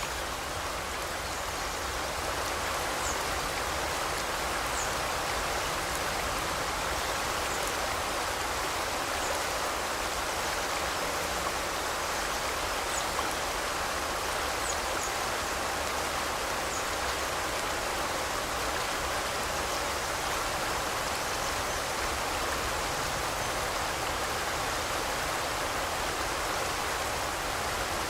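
Forest river flowing, a steady even rush of water, with a few faint short high chirps of birds now and then.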